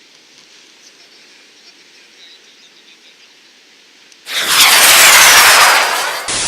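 Faint steady hiss for about four seconds, then a sudden loud burst of noise with a falling whistle through it, lasting about two seconds and giving way to steady static.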